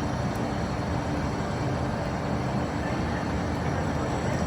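Steady low rumble and hum of electric trains at a station platform.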